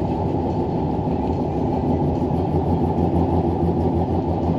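Steady road and engine noise from a chained-up pickup truck driving on a snowy highway, heard inside the cab as a continuous low rumble.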